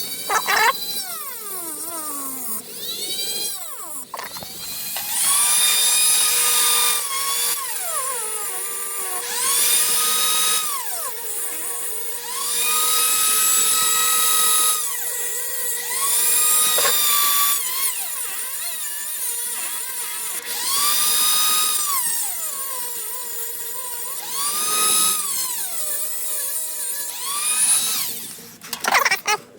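A small handheld power tool's motor whines up to speed and back down again in repeated bursts of a few seconds each, cutting teeth into a screw to make a pocket-hole cutter.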